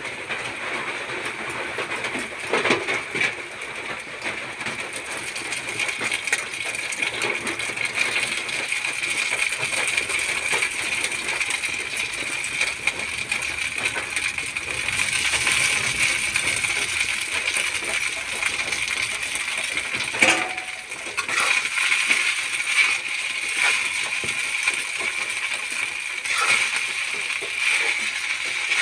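Vegetables and boiled noodles sizzling in a kadhai, a steady frying hiss, with occasional sharp metallic clinks, the loudest about two-thirds of the way through. Near the end, a spatula stirs and scrapes the noodles in the pan.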